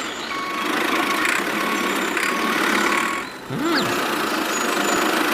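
A small engine running steadily, with a faint whine coming and going, and a brief sliding tone rising and falling about three and a half seconds in.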